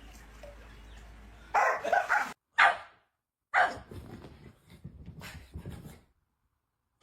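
A dog barking a few short times, starting about one and a half seconds in.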